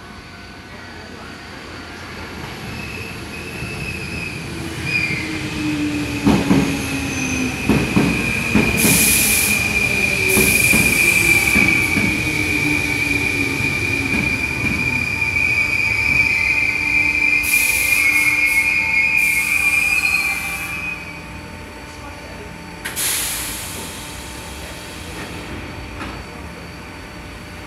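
Sanyo Electric Railway train running slowly over points into a station. The wheels give a long high squeal through most of the run, with a cluster of clacks over the rail joints and points and a falling motor whine early on. The sound dies down as the train comes to a stop, and a short hiss follows a couple of seconds later.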